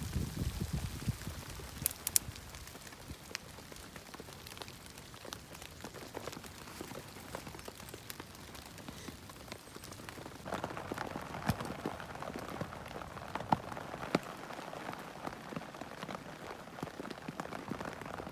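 A dense patter of small ticks and taps over a soft hiss, the hiss growing louder about ten seconds in.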